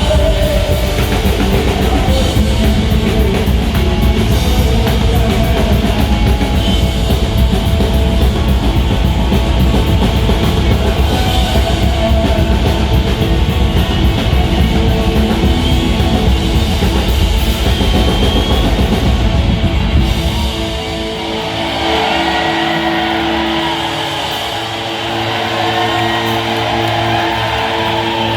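Live rock band playing loudly, with drums, bass and electric guitar. About 20 seconds in, the drums and bass stop, leaving held chords ringing on their own.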